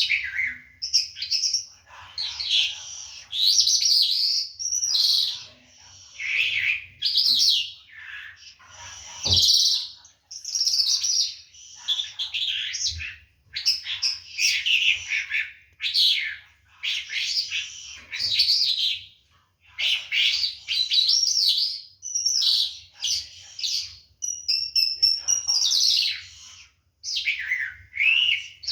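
A lark singing a long run of rapid, varied, twittering phrases, each a second or two long, with short pauses between them.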